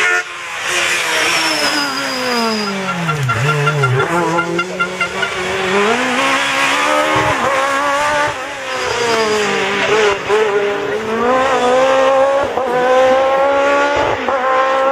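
Peugeot 306 Maxi rally car's engine: the revs fall away steeply over the first few seconds, then climb again in several steps with short breaks between them, as on gear changes under hard acceleration. A brief high squeal comes twice, early and about halfway through.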